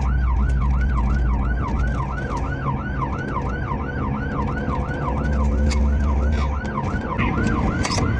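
Police car siren on its fast yelp, sweeping up and down about four times a second, over the steady low drone of the pursuing patrol car's engine and tyres.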